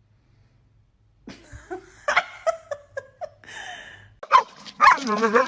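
A dog giving a run of short, high calls, then a louder call with a wavering pitch near the end.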